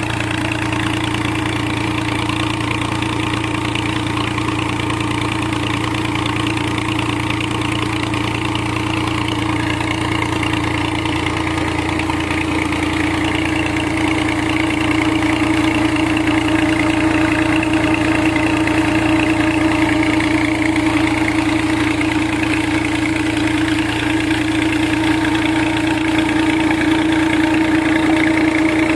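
Tractor engine running steadily while driving a tubewell pump through a drive shaft, with a strong constant hum. It gets a little louder about halfway through.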